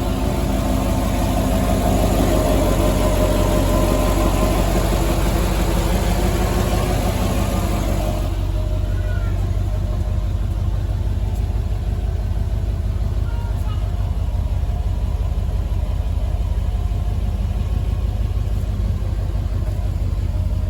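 Heyday WT-1 engine running steadily with a fast, even beat. The fuller, brighter sound falls away about eight seconds in, and it keeps running more softly after that.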